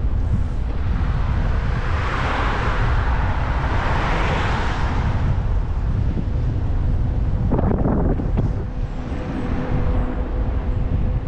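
Wind rumbling on the microphone of a moving e-bike. A rush of noise swells and fades about two to five seconds in, with a shorter burst near the end.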